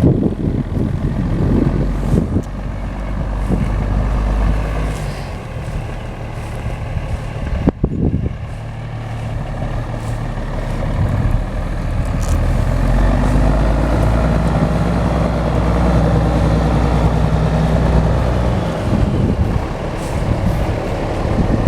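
Engine of a 1981 International S1954 dump truck running, its pitch shifting up and down as engine speed changes, with one brief sharp sound about eight seconds in.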